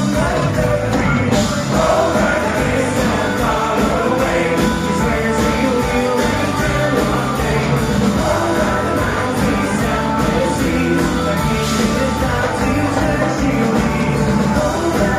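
Live band music, loud and continuous, with a steady drum beat: a country-and-bluegrass-style rock cover band in full flow.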